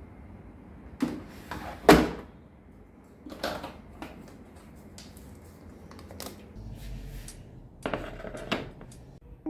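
A series of sharp knocks and clicks from things being handled and set down, irregularly spaced, the loudest about two seconds in.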